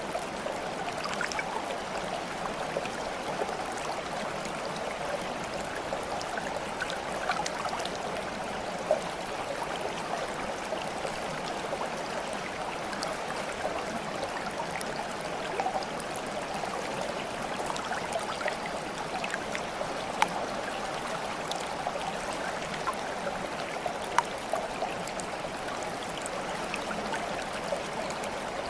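Small stream of water flowing and babbling steadily, with bubbly trickling and a few brief louder splashes or drips.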